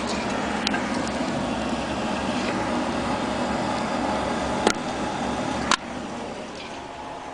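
Pellet stove running, a steady mechanical noise, with a few sharp clicks; after a click near the end the noise drops to a lower level.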